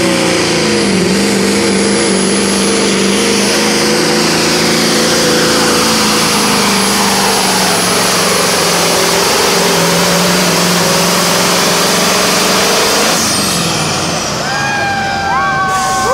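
Turbo-diesel semi truck engine running hard under full load, with a high, steady turbocharger whistle over the engine note. About thirteen seconds in, the engine drops off and the turbo whistle falls away as it spools down.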